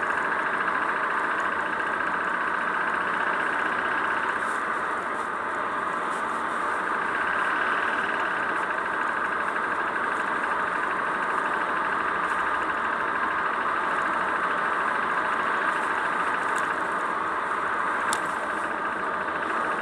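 Kia K3 (YD) Gamma GDI petrol engine running steadily with a fast, even 'da-da-da-da' ticking rattle. The owner takes it for a GDI engine fault and names tappet noise, piston scuffing or knocking as possible causes.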